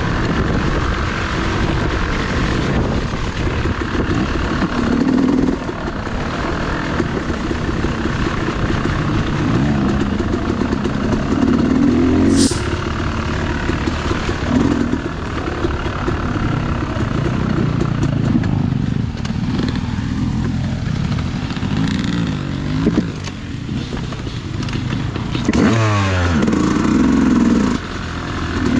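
Dirt bike engine being ridden on a trail, the revs rising and falling again and again as the throttle opens and closes, with a quick run of revs shortly before the end.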